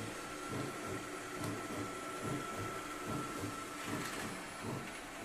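Midea M7 robot vacuum running, a steady machine noise with a low throb pulsing a few times a second and a thin high whine that stops near the end.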